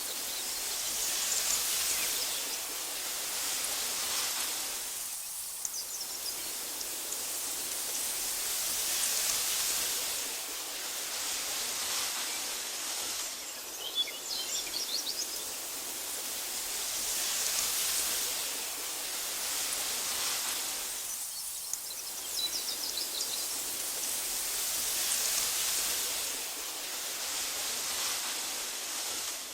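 Wind blowing through tall meadow grass, a soft hiss that swells and eases in slow gusts about every eight seconds. A few faint, brief bird chirps come through the wind three times.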